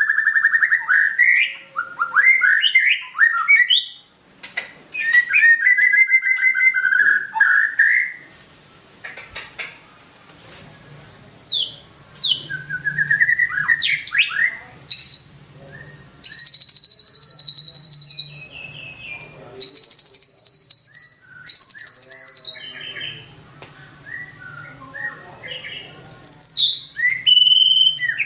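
White-rumped shama singing in bursts of varied phrases: clear whistles, quick rising and falling sweeps and fast high trills, with short pauses between phrases. A faint low hum lies under the song from about a third of the way in.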